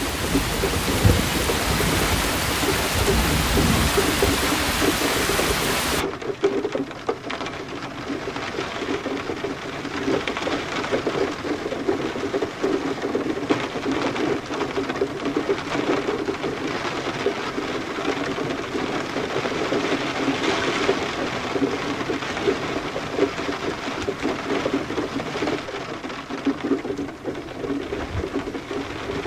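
Heavy rain falling with a low rumble of thunder. About six seconds in, the sound cuts abruptly to a duller, crackling patter of rain, with the high hiss gone.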